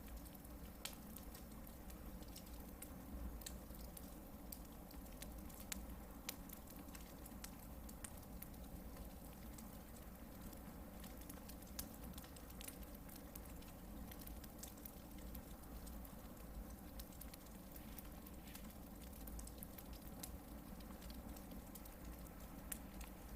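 Hardwood campfire burning: a steady soft hiss with irregular sharp crackles and pops from the logs.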